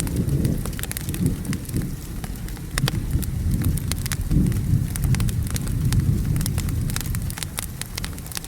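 Wood fire crackling with frequent sharp pops, over steady rain and a low rumble of thunder.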